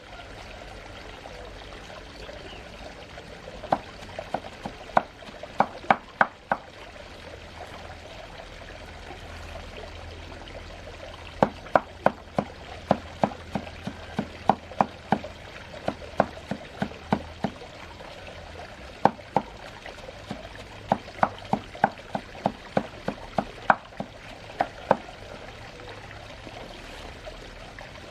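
Runs of sharp, ringing knocks, about three or four a second, in groups of several strokes with pauses between, over a steady low hum.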